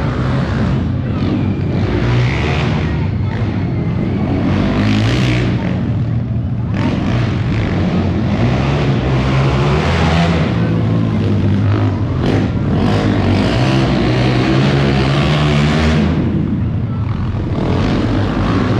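Monster truck engine running loud, its pitch shifting up and down as the throttle is worked.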